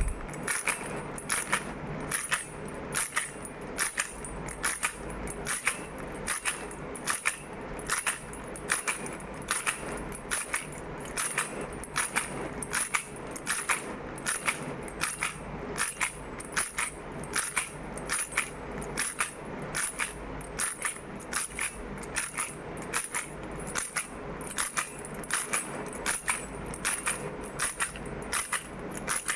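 Baby rattle shaken over and over in a steady rhythm, its beads or pellets clattering with each shake.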